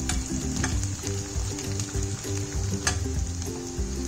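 Ghee sizzling in a steel pan as garlic, green chillies and whole dried red chillies fry for a tadka, with a metal spoon stirring and clinking against the pan now and then. One sharper clink comes about three seconds in.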